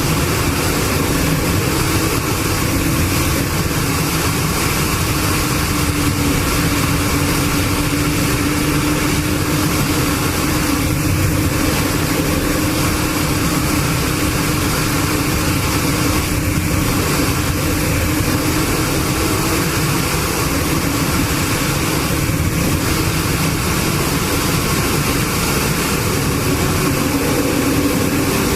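A motor vehicle's engine running at a steady speed, a droning tone that drifts slightly in pitch, over a constant hiss of road or wind noise.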